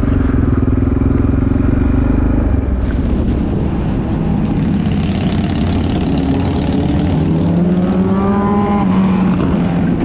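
Motorcycle engine running at a steady note. About three seconds in the sound changes abruptly to engines revving, their pitch rising over the following seconds.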